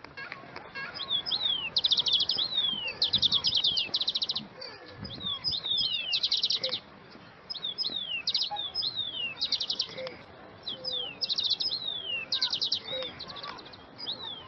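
Songbirds singing: quick down-slurred whistled notes and fast, bright trills, repeated in phrases every second or two with songs overlapping.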